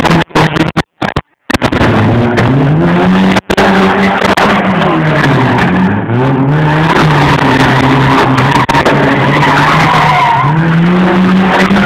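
Nissan 200SX S13's engine revving hard, its pitch rising and falling several times, with tyres squealing as in a burnout. The sound cuts out briefly a few times near the start.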